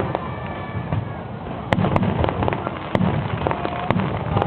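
Aerial fireworks going off: about four sharp bangs spread over a few seconds, over a steady background din of the watching crowd.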